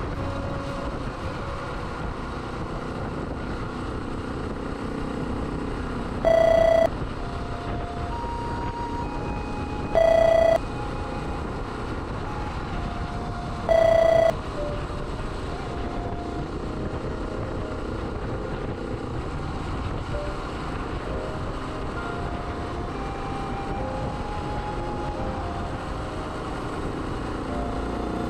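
Suzuki DR125S single-cylinder motorcycle riding along, its engine running steadily under road and wind noise, with faint shifting tones as the engine speed changes. Three loud, short electronic beeps come about four seconds apart, a few seconds in.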